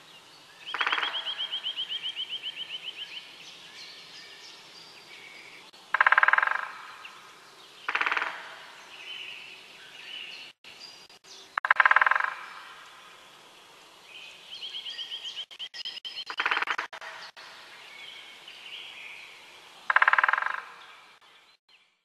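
Birds calling: a fast, high pulsed trill twice, and five loud, harsh calls a few seconds apart, with softer chirps between.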